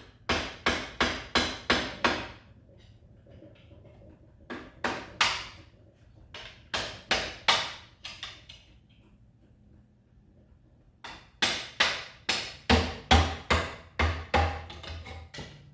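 Hammer blows in quick runs: about six strikes at the start, two pairs in the middle, and about ten more near the end, each ringing off briefly.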